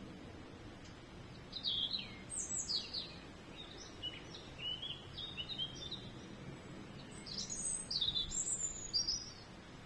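A songbird singing two phrases of quick, varied, high notes sliding up and down, the first starting about a second and a half in and the second near the end, over faint steady outdoor background noise.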